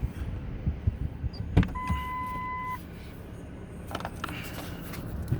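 Vehicle sounds from inside a stopped car: low knocks and a sharp clunk about one and a half seconds in, then a steady electronic beep lasting about a second, over a faint steady low hum.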